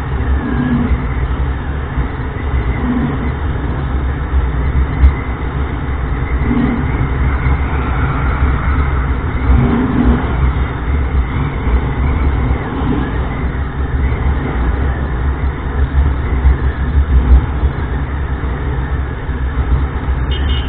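Honda Livo 110 cc single-cylinder motorcycle running steadily while riding along a highway, heard from the moving bike as a continuous mix of engine and rushing road and wind noise.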